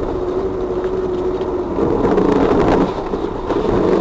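Steady engine and road noise of a moving vehicle: a continuous drone with a low hum that steps up in pitch and gets louder about two seconds in.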